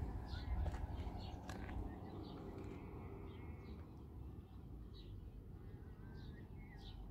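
Birds calling outdoors: short high chirps repeated every half second or so, over a steady low rumble.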